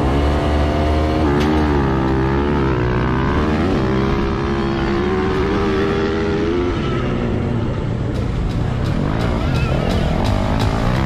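Motocross dirt bike engine revving, its pitch rising and falling several times, as a sound effect laid over a toy bike being ridden.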